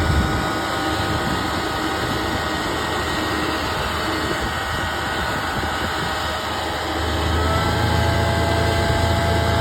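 Sprinkler truck's engine running steadily. Its low hum weakens about a second in and comes back stronger near the end.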